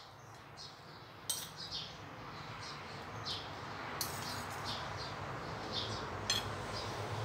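Small birds chirping repeatedly, two or three short high chirps a second, over a low steady hum. A few light clicks of bowl and plate sound as fried bacon pieces are laid on the salad by hand.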